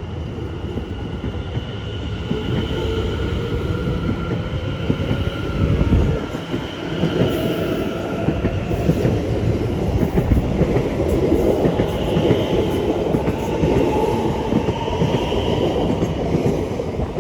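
Two coupled Greater Anglia Class 720 Aventra electric multiple units pulling out of the platform. Their traction motor whine climbs steadily in pitch as the train accelerates, over a continuous rumble of wheels on rail.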